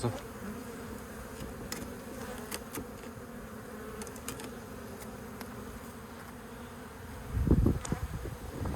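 Honeybees buzzing steadily around their opened colony as it is moved into a hive box. About seven seconds in a louder low rush lasts about a second.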